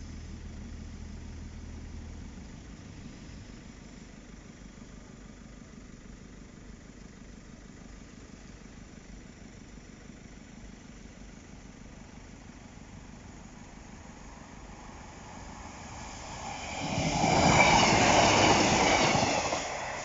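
A Class 156 Sprinter diesel multiple unit passes the crossing near the end: a rushing rumble that swells quickly and dies away about three seconds later. Before it, a low steady hum stops about two seconds in, leaving faint background.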